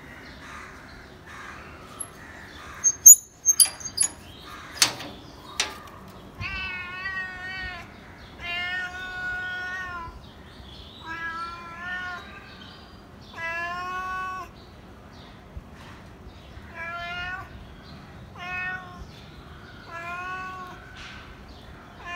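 Domestic cat meowing again and again, about eight meows spaced a second or two apart. Before the meows begin, a handful of sharp clicks or knocks come close together, and these are the loudest sounds.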